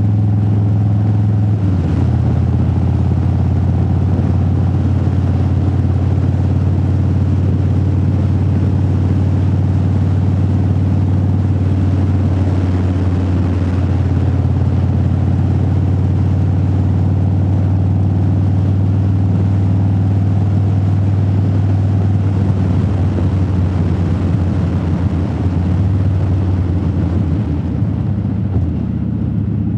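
Motorcycle engine cruising at a steady pace, heard from inside the rider's helmet. The engine note steps up slightly about two seconds in and wavers near the end.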